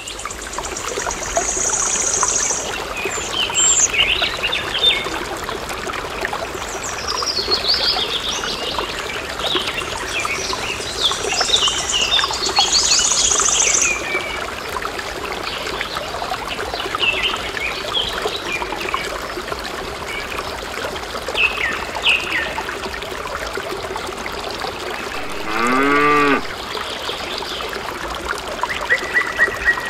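Farm ambience: birds chirping on and off over a steady trickle of water, with a single cow moo near the end.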